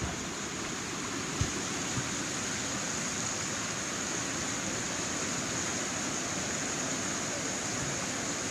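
River whitewater rushing steadily over a rapid, with two short knocks about a second and a half and two seconds in.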